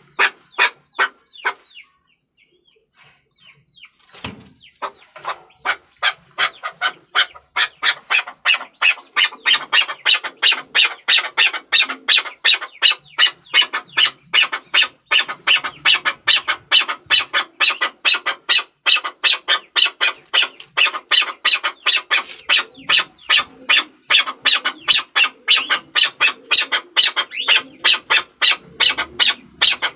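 Chukar partridge calling: a fast run of short repeated clucking notes, about four a second, breaking off briefly near the start, then resuming and building to a steady loud chorus.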